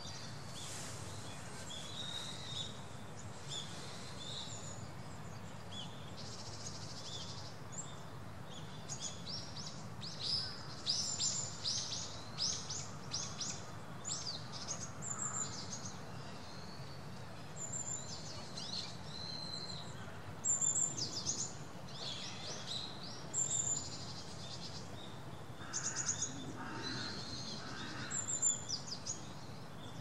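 Small birds chirping with short high-pitched calls, coming thick and fast about a third of the way in and in scattered bursts later, over a steady low background rumble.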